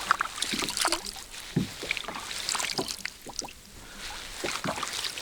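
Water dripping and small knocks and clicks against a kayak, scattered and irregular.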